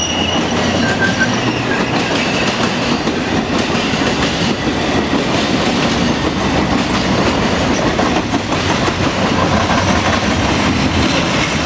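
Railroad passenger cars rolling past close by: a steady, loud rumble of steel wheels on rail with clicking over the rail joints. A high wheel squeal fades out in the first second.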